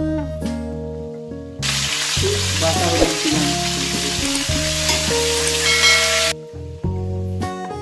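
Cauliflower florets frying in hot oil in a kadai, with a loud sizzle being stirred; the sizzle cuts in about a second and a half in and stops abruptly about six seconds in. Instrumental background music plays underneath.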